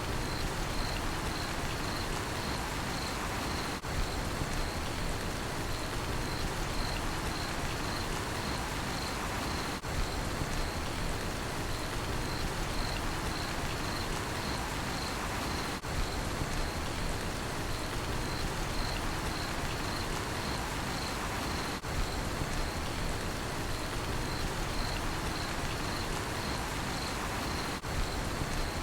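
Steady rain falling, with a cricket chirping in regular high pulses over it. The sound dips briefly about every six seconds.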